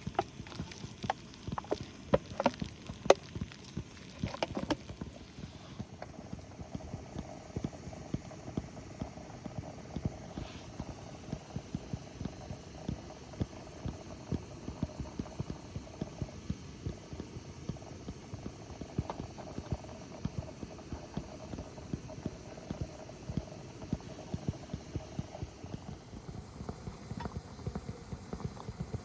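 Food simmering in a pan over a wood campfire: a dense, steady run of small bubbling ticks, with a few sharper clicks and knocks in the first few seconds.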